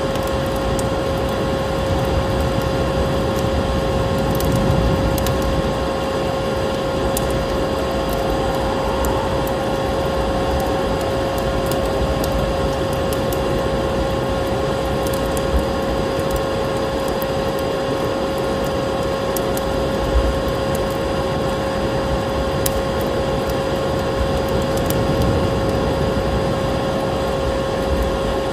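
Vacuum cleaner running steadily, its motor giving a constant whine over a rushing hiss, with scattered small crackles of a wood fire mixed in.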